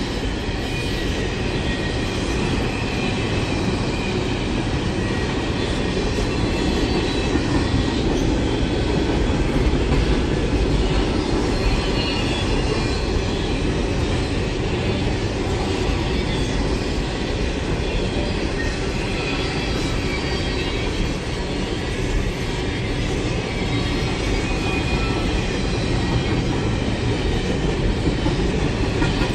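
Train cars rolling past on the rails: a steady low rumble of wheels on track, with faint high-pitched wheel squeal drifting in and out.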